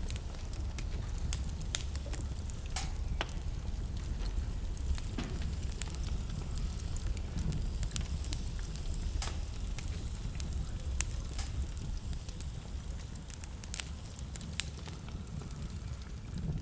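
Wood fire burning in a fireplace: a steady low rumble of flames under frequent irregular crackles and pops.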